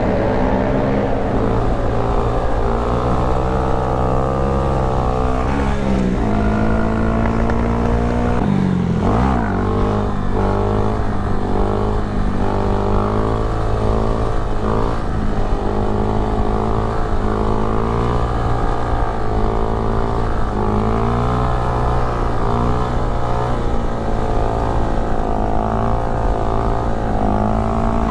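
Honda Grom's 125cc single-cylinder engine running under way, its pitch rising and falling as the throttle opens and closes, with sharp drops and climbs in revs about six and nine seconds in, as at gear changes.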